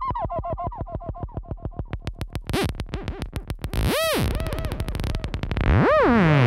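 Alt analog soundscape synthesizer playing a pulsing tone that drops in pitch, then breaks into a rapid train of clicks that speeds up. Twice a tone sweeps up and back down, and a hiss of noise swells in near the end.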